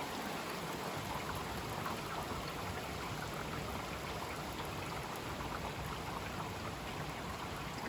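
Heavy rain falling steadily, a dense, even patter. A single sharp knock sounds right at the start.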